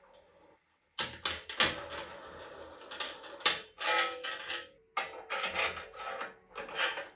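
Irregular metallic clicks, rattles and scrapes of bicycle parts and hand tools being worked, starting about a second in.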